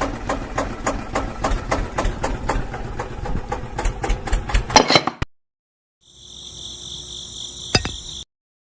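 Quick repeated knocks or taps, about four or five a second, for about five seconds, a few louder near the end. After a short break comes a steady, high, insect-like chirring with a single sharp click.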